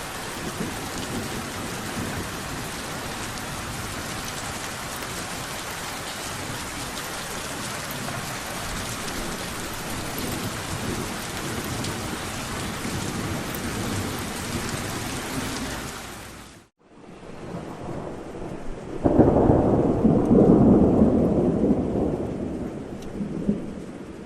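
Steady rain falls, then fades out briefly about two-thirds of the way through and returns softer. A few seconds later a loud rumble of thunder rolls in and dies away over about four seconds.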